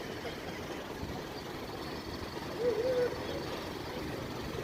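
Steady outdoor traffic noise from passing vehicles, with a short wavering tone about three seconds in.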